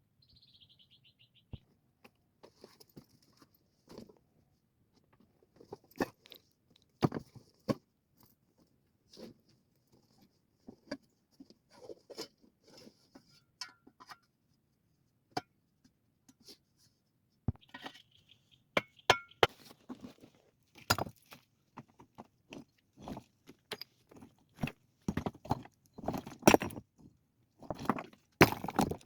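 Stones knocking, clinking and scraping against each other as they are handled, in irregular strokes that come thicker and louder toward the end.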